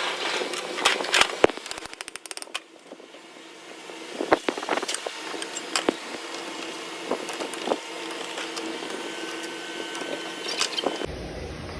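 Irregular mechanical clicks and knocks, with a quick run of rapid clicks about two seconds in and a faint steady hum underneath.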